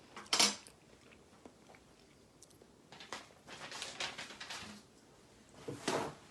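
Cutlery and dish sounds: a sharp clink about half a second in, a few light taps, a scraping stretch around the middle, and another clink near the end.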